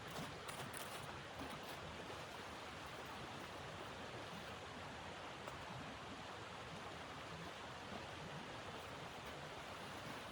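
Steady rushing noise of blizzard wind, with a few faint clicks.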